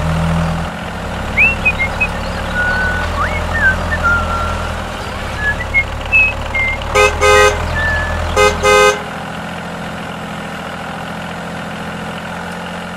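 Tractor engine sound effect running steadily, with a few short high chirps, then two horn toots about seven and eight and a half seconds in; the engine drone stops soon after the second toot.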